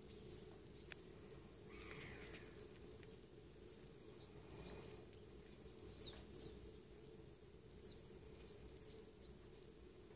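Faint, thin bird calls: short, high chirps scattered irregularly, several gliding downward, with a louder pair about six seconds in, over a steady low background hum.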